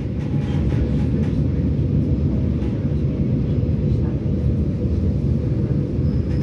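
Steady low rumble of a passenger train heard from inside the carriage, with faint scattered clicks and rattles.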